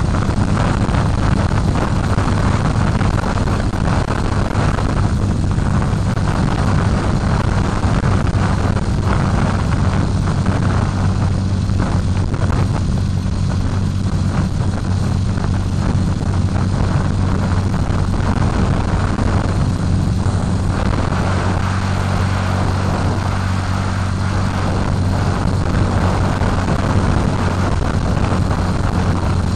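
Ural 650 motorcycle's flat-twin engine running steadily at cruising speed, with wind rushing over the microphone.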